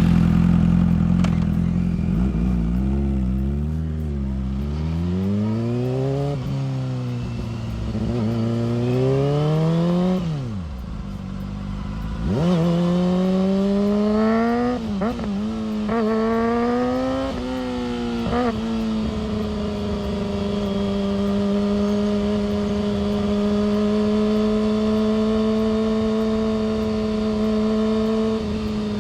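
Yamaha R6's inline-four engine and exhaust on a ride: revs climbing and dropping back several times, as through gear changes, with the throttle closed about ten seconds in. For the last ten seconds it holds a steady cruising pitch.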